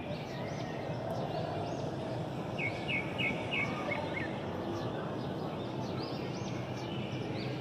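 Small birds chirping over a steady outdoor background hiss, with short high calls repeating throughout and a quick run of about five chirps about three seconds in.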